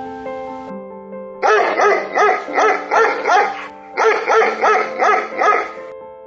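A young animal's quick, high yelping calls in two runs of about six each, over steady background music.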